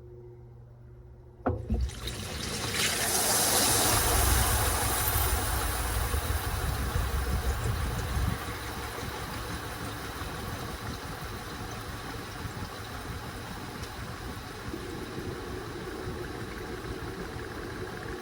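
Washing machine: a click about a second and a half in, then water rushing through it, loudest for the first few seconds before settling into a steady running flow.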